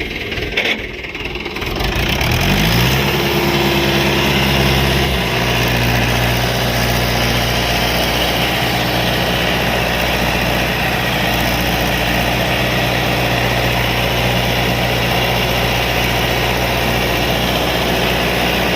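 Mahindra 575 DI tractor's four-cylinder diesel engine running just after starting: it revs up about two seconds in, holds the higher revs briefly, then drops back about five seconds in to a steady idle.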